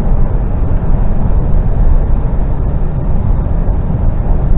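Articulated lorry's diesel engine and road noise heard inside the cab while driving: a loud, steady low rumble.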